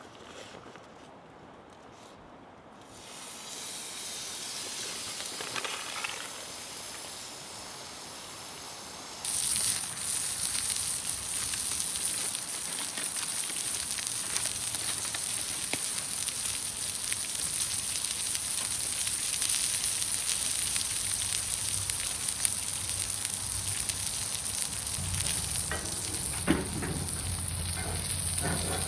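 Food sizzling in a hot pan over a campfire. The sizzle starts suddenly about nine seconds in and goes on loud and steady, with small crackles through it, after a quieter, softer hiss at the start.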